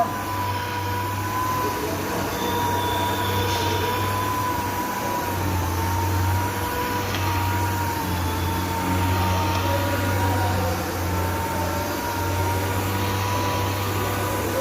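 Orbital sander running steadily against epoxy primer on a car body panel. It gives a continuous high whine that wavers slightly in pitch over a low hum and the hiss of sanding.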